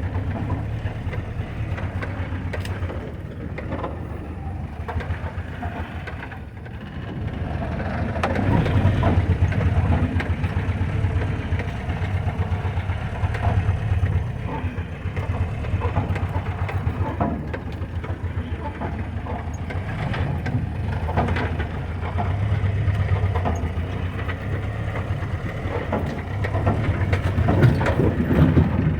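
Old Jeep engine running at low speed off-road, its level rising and falling, with crunching and scraping from sagebrush and rough ground and scattered knocks throughout.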